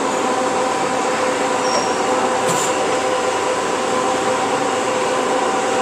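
Band saw running steadily: an even machine noise with a few steady tones from the motor and blade.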